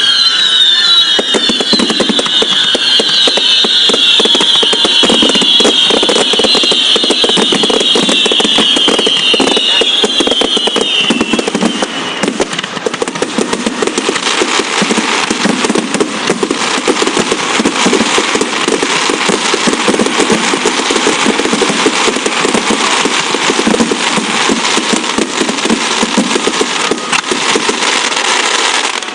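Fireworks display: a dense, continuous barrage of bangs and crackling. For about the first twelve seconds a chorus of high whistles sounds over it, gliding slightly down in pitch.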